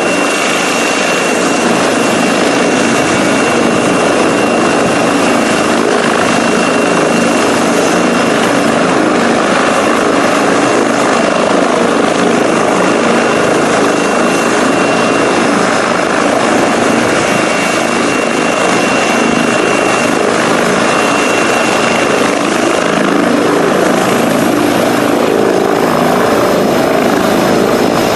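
Medical helicopter's turbine engine and rotor running steadily and loudly, with a high steady turbine whine that fades out about two-thirds of the way through.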